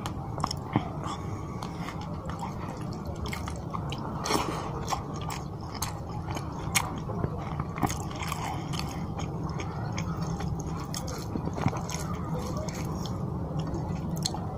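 Close-miked chewing and wet mouth sounds of a person eating rice and fish curry by hand, with scattered sharp smacks and clicks over a steady low hum.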